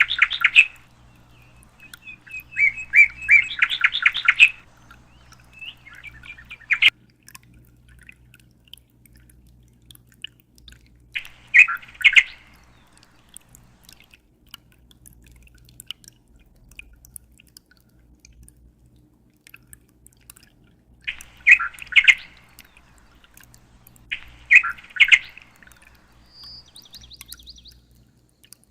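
A small bird chirping in short, rapid trilled phrases: several in the first few seconds, then single phrases about 12, 21 and 24 seconds in, with quiet gaps between. A faint low hum runs underneath.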